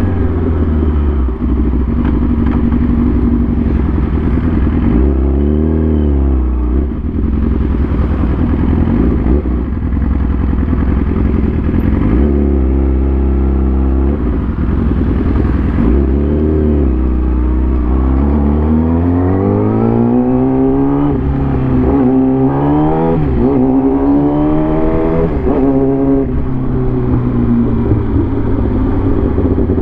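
Motorcycle engine running while riding. The pitch dips briefly a few times, then climbs and drops repeatedly in the second half as it accelerates through the gears.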